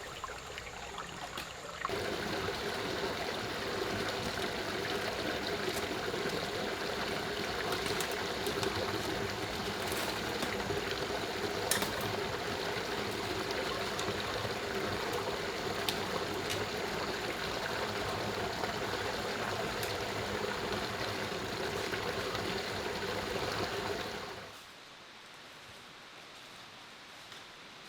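Steady running water, like a stream, that gets louder suddenly about two seconds in and cuts off abruptly near the end, leaving a much quieter background hiss.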